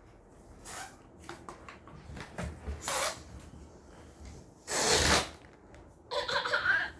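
Several short rustling, rubbing sounds, the loudest about five seconds in, then a brief child's voice near the end.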